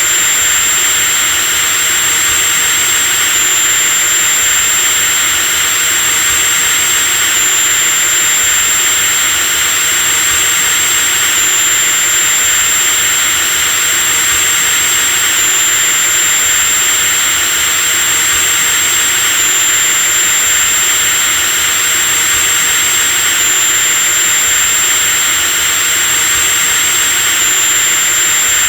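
Electric drill running continuously at a steady speed: a high, steady motor whine over a loud hiss, with a slight pitch step about every four seconds.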